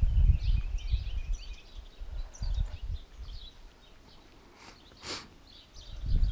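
Small birds chirping in the background, with uneven low rumbling noise for the first couple of seconds that dies away, and one short sharp noise about five seconds in.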